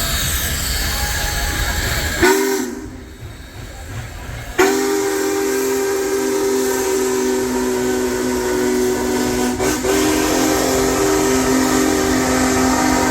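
Union Pacific Big Boy No. 4014 steam locomotive sounding its chime whistle: a short toot about two seconds in, then after a brief lull a long, steady chord of several tones held to the end, over the rumble of the train.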